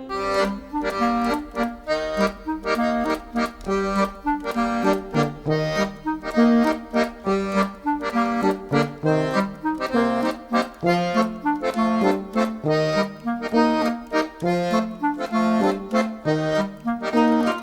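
Instrumental music led by an accordion, playing a rhythmic tune with a steady beat of repeated notes.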